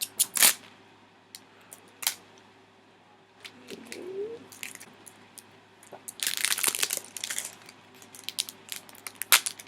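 Plastic wrapping on an iPhone box being torn off and crumpled. The crinkling comes in bursts, the densest a little past the middle, with sharp clicks and taps from handling the box in between.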